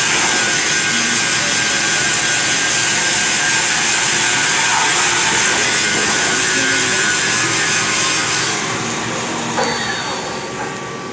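CNC lathe machining a DS38 box connection, a steady hissing run that fades gradually over the last few seconds.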